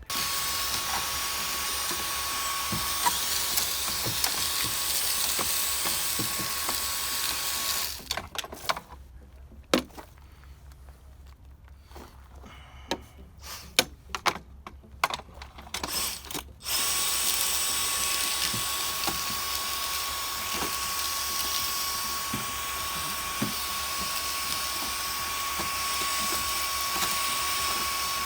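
Handheld vacuum running, a steady motor whine over rushing air, cleaning acorn debris out of the car's air filter box. It is switched off about 8 s in, giving way to scattered knocks and clicks, and switched back on about 17 s in.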